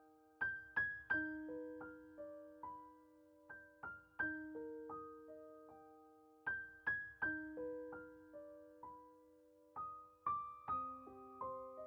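Soft background piano music: a slow, gentle melody of single struck notes ringing out, repeating the same short phrase.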